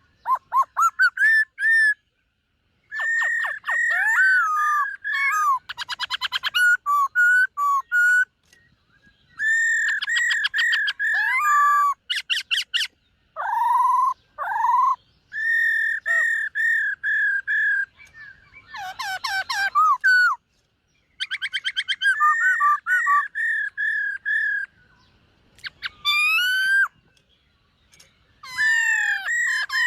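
Black-throated laughingthrush singing loud, clear whistled phrases: runs of rapid repeated notes and sweeping slurred whistles, broken by short pauses of a second or so.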